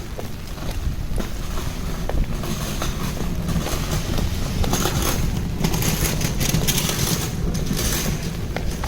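Rainy city street: footsteps on wet pavement over a steady low rumble, with a vehicle passing on the wet road, its tyre hiss swelling about two and a half seconds in and fading near the end.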